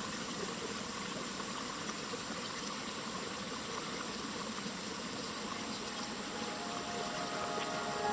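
A steady, even hiss of outdoor background noise, with music fading in near the end.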